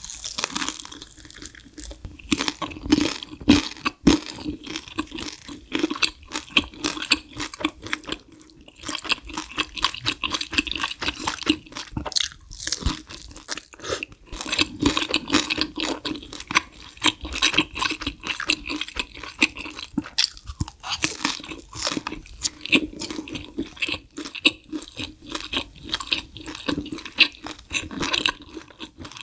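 Close-miked chewing of crispy battered fried pork (guo bao rou) softened in spicy broth: a dense, irregular run of crunches and wet mouth sounds.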